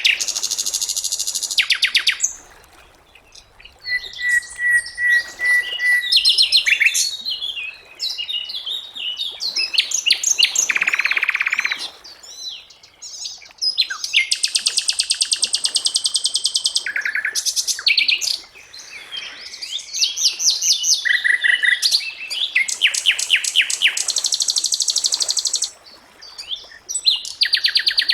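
A sikatan londo (flycatcher) singing a varied song: bursts of fast, high trills and buzzy rattles, one steady whistled note held for about two seconds early on, with short pauses between phrases.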